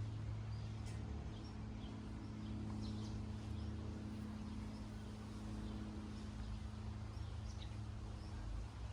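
Faint, scattered bird chirps over a steady low engine-like hum.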